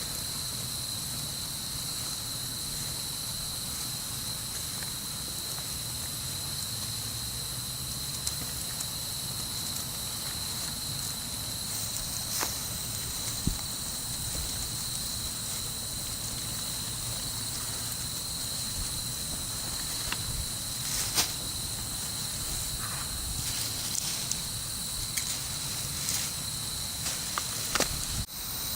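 Wood bonfire crackling: scattered sharp pops and snaps, few in the first half and more frequent in the second, over a steady high hiss.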